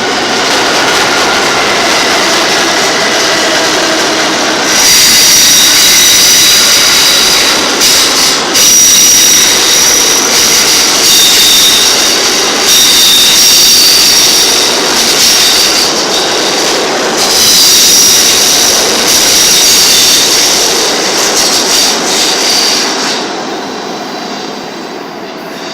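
R68A subway train running through the station with loud rail noise. From about five seconds in, the wheels squeal in a high, steady whine of several tones that breaks off briefly a few times. It fades near the end.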